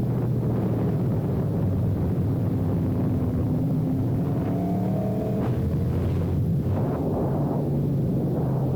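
Sport motorcycle engine running under way, its pitch climbing slowly through the middle and breaking off twice near the end, over steady wind rush.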